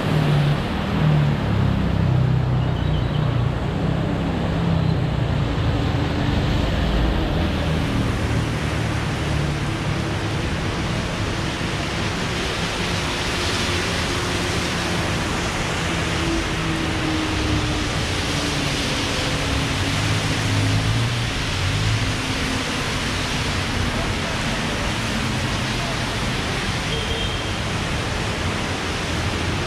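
Heavy rain falling, a dense, steady hiss, with a faint low hum coming and going underneath.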